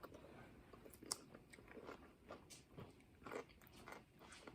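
Faint crunching and chewing of a bite of spicy Tabasco pickle, heard as scattered soft crisp clicks.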